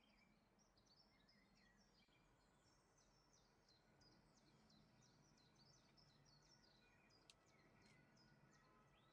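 Very faint birdsong: many quick, high chirps and trills going on throughout, with a single sharp click about seven seconds in.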